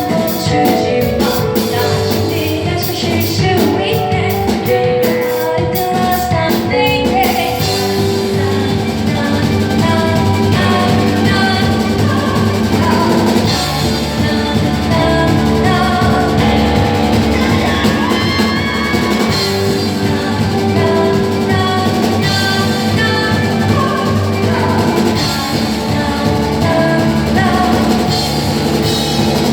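Live rock band playing a song on drum kit and guitar, with a singing voice. The sound of the band changes about seven seconds in and runs fuller from there.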